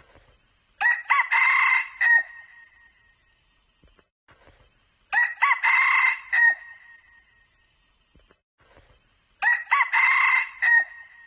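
Red junglefowl cock crowing three times, about every four and a half seconds, each crow a short, clipped call of about a second and a half. The three crows look identical.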